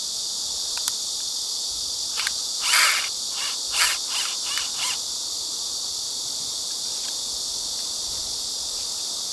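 Steady high-pitched chorus of insects, with several short hissing strokes between about two and five seconds in.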